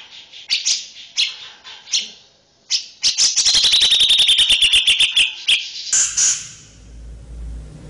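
A songbird gives a series of sharp, separate chips, then a fast trill of about a dozen notes a second that drops slightly in pitch and ends after about two and a half seconds. This is followed by softer calls over a low hum.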